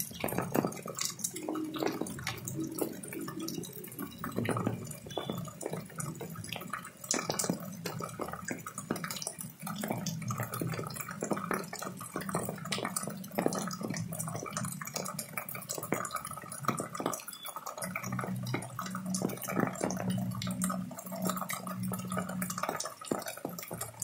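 Rainwater pouring and dripping, with many irregular splashes and drips over a steady low hum.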